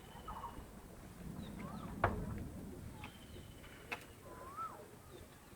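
Faint birdsong and fowl: short chirps and two rising-and-falling whistles, with a chicken clucking near the start. A sharp knock about two seconds in, the loudest sound, and a smaller one just before four seconds.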